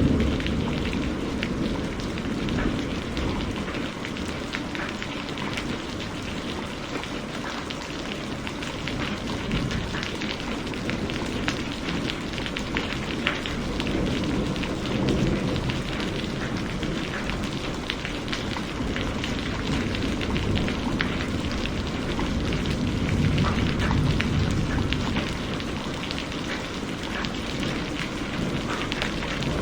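Heavy rain falling steadily, with many individual drop impacts. Low rumbles of thunder fade away at the start and swell up again a couple of times.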